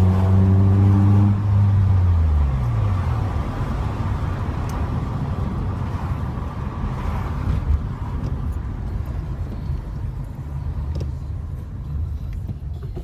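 Car engine held at steady revs, then the revs fall away over about a second and a half. After that a steady low rumble of the engine and road noise carries on as the car drives along, with one brief knock about two-thirds of the way through.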